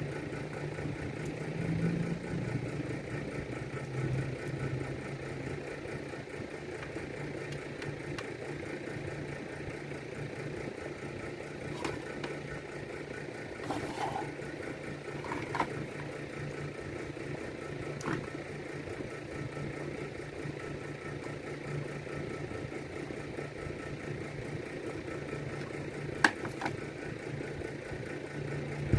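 A steady low mechanical hum throughout, with a handful of light clicks and taps from small hard parts being handled, the sharpest one near the end.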